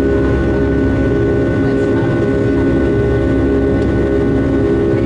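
Steady jet engine drone and airflow noise inside the cabin of a Boeing 757-200, a deep even rumble with a constant hum.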